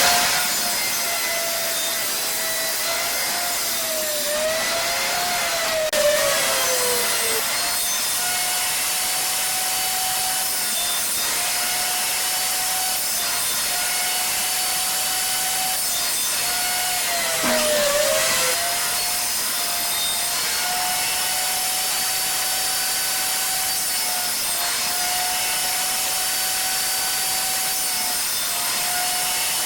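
Electric power saw running with a steady high motor whine while cutting small wooden braces. Its pitch sags briefly twice, about five and seventeen seconds in, as the blade takes the load of the cuts.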